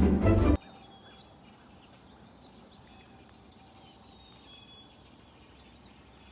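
Music cuts off about half a second in, leaving faint outdoor background noise with scattered short, high bird chirps.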